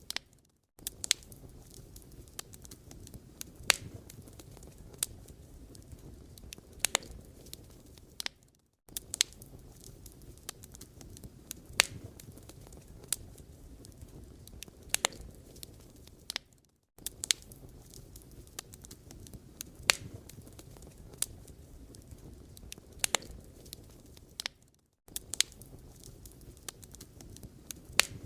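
Firewood burning, with irregular sharp pops and snaps over a low steady hiss. It fades out and back in briefly about every eight seconds.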